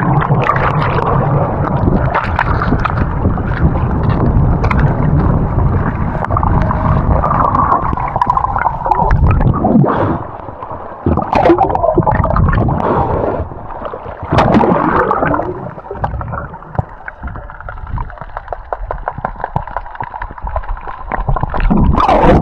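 Fast river rapid water churning and gurgling close around the microphone, with splashes, easing somewhat in the second half.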